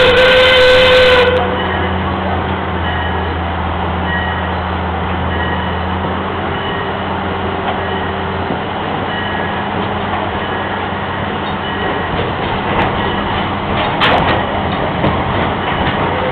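A train whistle sounding a steady note that stops about a second in, then the steady rumble and clatter of a park train running along its track, heard from aboard an open-sided passenger car, with a few clicks near the end.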